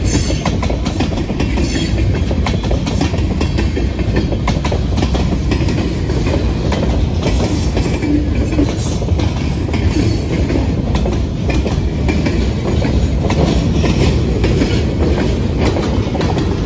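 Freight train cars (tank cars, covered hoppers, a centerbeam flatcar) rolling past at steady speed: a continuous rumble with many sharp wheel clicks over the rail.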